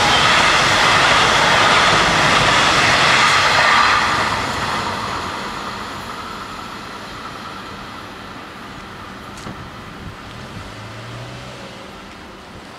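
Freight train of trailer and container wagons passing at speed: a loud, steady rumble of wheels on rail that ends about four seconds in as the last wagon clears, then fades away as the train recedes. A faint low hum begins near the end.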